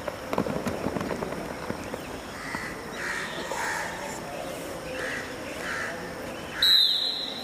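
A bird calls over and over in short, evenly spaced calls through the middle. Near the end, a short, loud whistle blast comes in at one steady high pitch. Early on there is a quick flurry of sharp taps and slaps.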